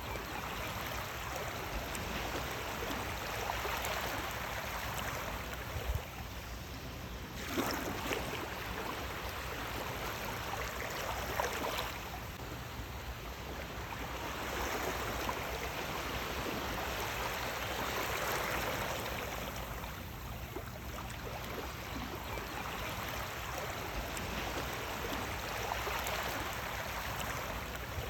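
Sea waves washing in, a steady rush of water that swells and eases every several seconds.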